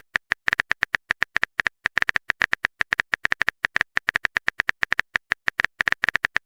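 Typing sound effect: a rapid, even run of short clicks, about eight a second, each with a bright tick.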